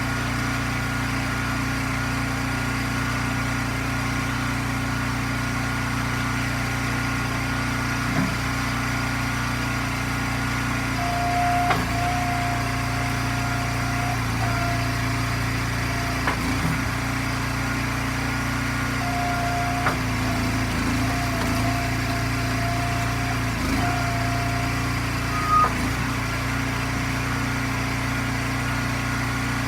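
Log splitter's gas engine running steadily, with a higher whine that comes in twice for a few seconds each, and a few sharp knocks of wood being split and dropped.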